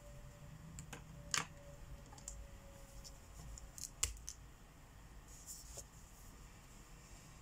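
Markers being handled while coloring: a few light clicks and taps, the two sharpest about a second and a half in and about four seconds in, and a brief scratchy stroke of a marker tip on paper a little past five seconds.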